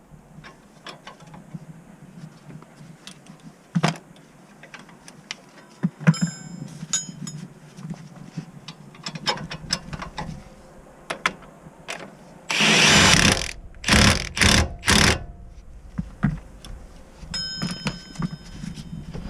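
Repair work on the car with hand tools: scattered metal clicks and clinks of tools and parts. Partway through come one loud burst of about a second and three shorter bursts right after it, from a power tool or a spray.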